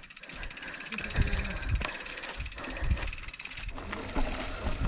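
Mountain bike's rear-hub freewheel ticking rapidly and steadily as the bike is pushed uphill by hand, with scattered low thuds. The background changes abruptly near the end.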